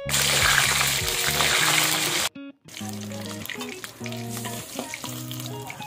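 Boiled eggs sizzling in hot oil in a karahi, loud for the first two seconds, then after a brief break softer, with a metal spatula ticking and scraping against the pan as it turns them. Background music plays throughout.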